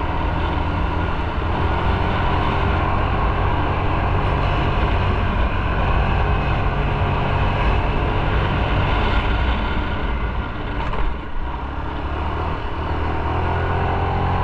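Motorcycle engine running steadily on the move, under a constant rush of wind and road noise. The sound dips briefly about eleven seconds in.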